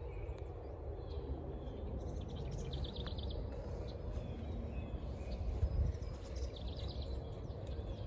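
Wild birds calling: two short rapid trills, about three and six seconds in, over a steady low background rumble.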